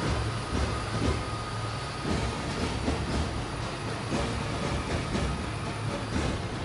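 Heavy military vehicles driving past in a parade column: a steady low engine rumble with scattered clanks and clicks.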